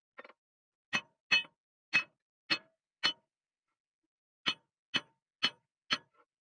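Hammer blows ringing on metal during tractor tire puncture repair: nine sharp clanging strikes about two a second, a run of five and then, after a pause of about a second and a half, a run of four.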